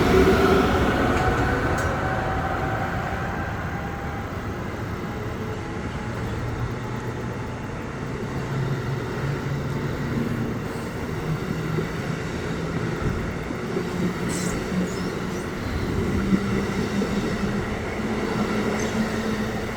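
Amtrak Northeast Regional train departing, its ACS-64 electric locomotive's rising motor whine fading just after the start. The passenger cars then roll past with a steady sound of wheels running on the rails.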